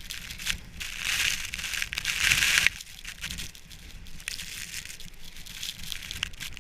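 Snow crunching and being crushed close to the microphone. It is loudest for a couple of seconds, stops suddenly, and softer crackling crunches follow.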